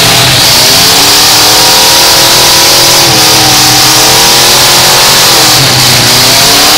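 Demolition derby car's V8 engine revving hard and very loud, its pitch falling and climbing again a few times, over a steady hiss.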